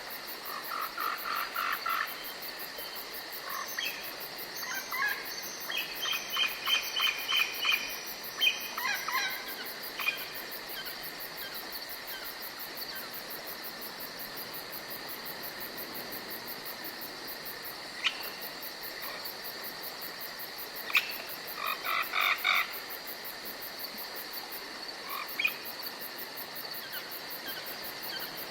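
Forest ambience: a steady high-pitched insect chirring throughout, with several bursts of rapid, repeated animal calls, each burst lasting a second or more.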